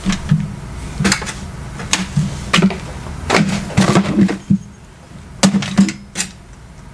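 Food containers and utensils being handled, knocking and clattering in a series of sharp, irregular knocks.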